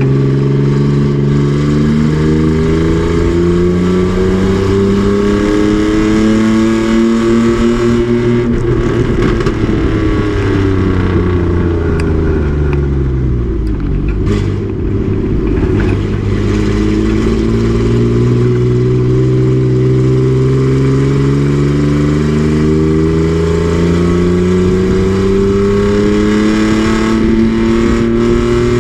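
Race truck's engine running hard on a racetrack, its pitch climbing steadily for about eight seconds. It falls away through the middle as the truck decelerates, then climbs steadily again through the last twelve seconds.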